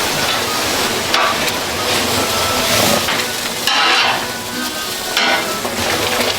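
Production machinery running: a steady hiss with short, louder swishes about a second in, near four seconds and about five seconds in.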